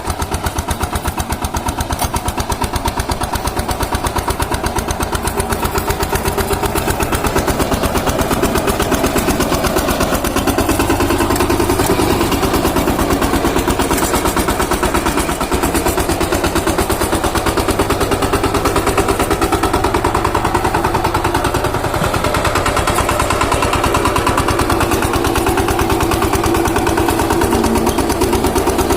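Power tiller engine running steadily with a rapid, even chugging beat.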